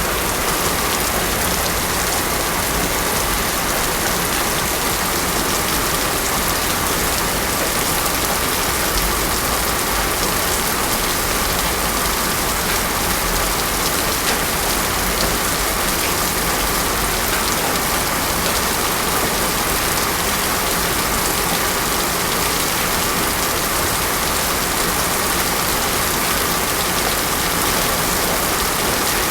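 Heavy rain pouring steadily on a road, an even, unbroken hiss.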